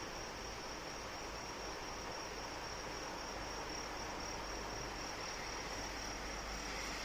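Steady rain falling, with crickets calling in a continuous high trill over it.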